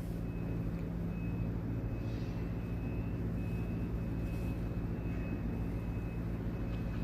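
Steady low hum of an engine or generator running, even and unchanging throughout, with a faint high steady whine that comes and goes.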